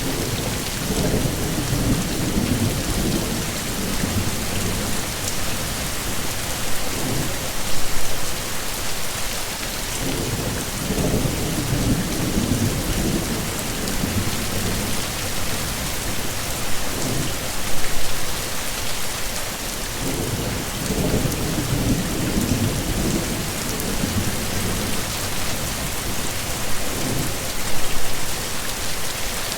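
Heavy steady rain pouring down, with low thunder rolling in and out in swells about every ten seconds.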